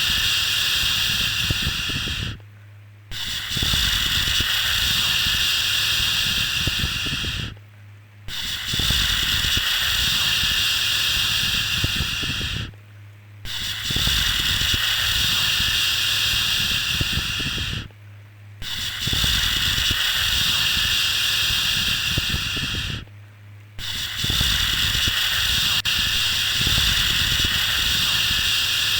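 A repeated 'shhh' shushing sound for lulling a baby to sleep: long hissing shushes of about four and a half seconds each, with a short pause between them about every five seconds. A steady low hum runs underneath.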